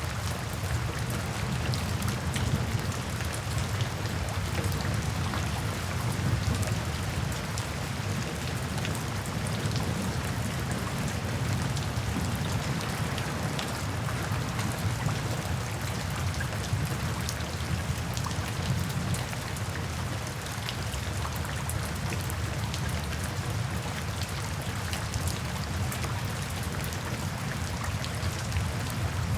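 Steady rain falling on a surface: an even hiss of many fine drop ticks over a deep, constant undertone.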